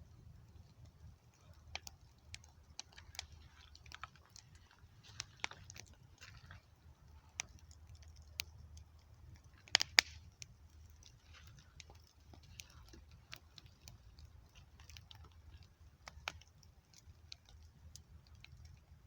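Campfire crackling: irregular sharp snaps and pops of burning wood, the loudest a quick double pop about halfway through, over a low steady rumble.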